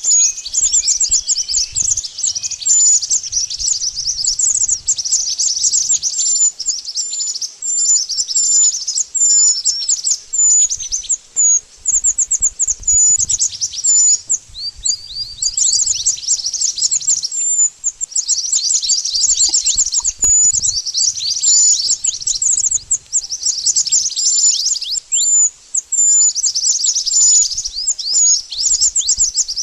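Mantenan birds calling continuously: rapid series of thin, high chirps, many per second, in bouts with brief gaps between them.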